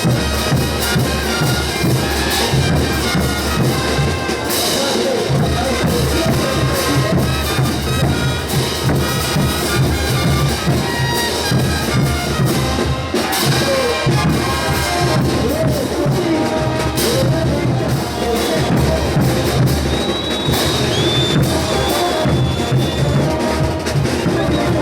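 Bolivian brass band playing ch'uta dance music: brass instruments over a steady drum beat, with crowd noise.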